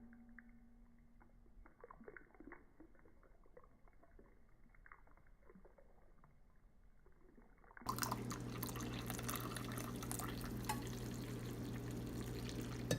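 Faint muffled clicks and rustles, then about eight seconds in a louder steady sound of liquid pouring, with a low hum under it.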